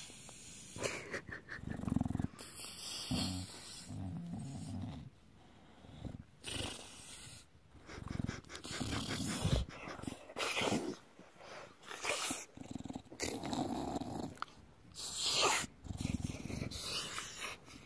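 English bulldog making low throaty noises in irregular bouts of a second or two, with short pauses between, as he gets a belly rub: the noises he makes when contented.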